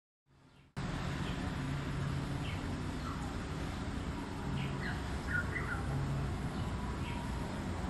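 Small birds chirping, a scattering of short high calls over a steady low hum, after a brief silent gap at the start.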